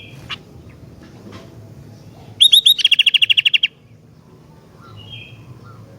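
Gentilang, a kutilang-type songbird, singing: a short chirp at the start, then about two and a half seconds in three quick sharp notes that run into a loud, fast, even trill lasting about a second, and another short chirp near the end.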